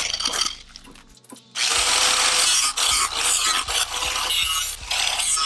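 Power tool cutting through the steel shell of a stock motorcycle muffler, a dense metal-cutting noise. It stops about half a second in and starts again about a second later.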